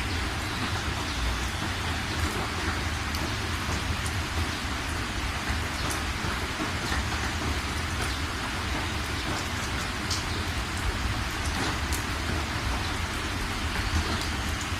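Steady rain falling, with scattered individual drops ticking on surfaces over an even hiss and a constant deep low rumble.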